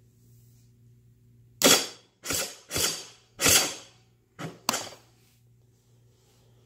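Electric starter of a 2018 GasGas dirt bike cranking in six short bursts over about three seconds, each dying away quickly. The engine does not catch, typical of hard starting on a battery too weak to spin it over.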